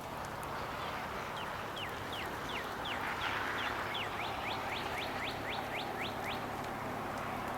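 A songbird giving a rapid series of about twenty downslurred whistled notes that speed up, over the steady rush of a stream.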